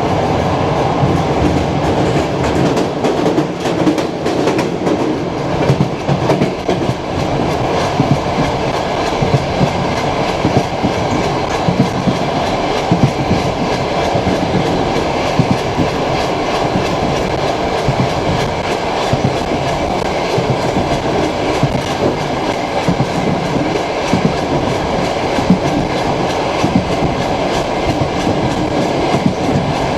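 Passenger train carriage running at speed, its wheels clacking over the rail joints against a steady rumble, heard from inside the carriage.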